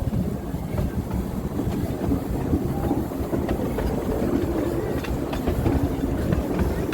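The No. 4 Norfolk Pioneer train running along the track: a steady low rumble with scattered short clicks of the wheels.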